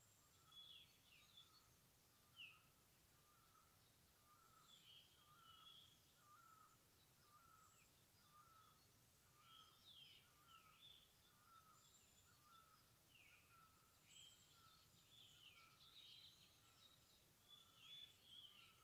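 Faint woodland birdsong: several birds giving short, falling chirps, over a lower note repeated steadily about every half second.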